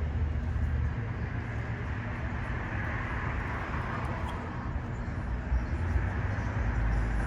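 Street traffic noise with a steady low rumble, swelling a little about three seconds in as a vehicle passes.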